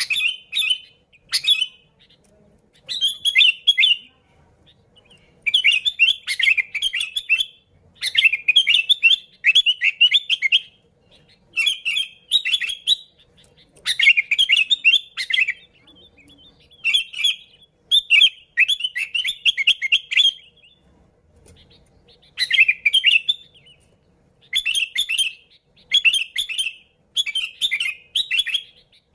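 Sooty-headed bulbul (kutilang) singing in a lively way: bursts of quick chirping notes, each a second or two long, repeated with short pauses throughout.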